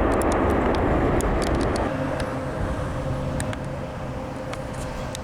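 Loud rushing jet airliner noise that drops off suddenly about two seconds in, giving way to a quieter rumble with a steady engine whine as a Southwest Boeing 737-700 on approach comes in.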